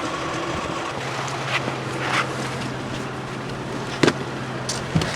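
A car running steadily with a low engine hum and a rushing noise, and two sharp knocks near the end.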